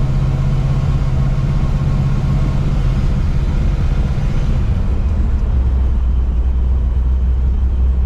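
Muscle car V8 running through a custom dual exhaust with an H-pipe or X-pipe crossover, a steady deep exhaust note. About five seconds in, the note drops lower.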